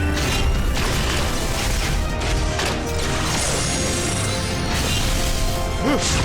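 Animated action soundtrack: background music layered with mechanical clanking and crash sound effects.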